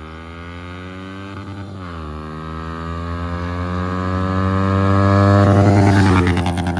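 Yamaha R15 V3's single-cylinder engine running through an Akrapovic full-system exhaust, accelerating. Its pitch drops briefly about two seconds in, then climbs steadily and gets louder toward the end.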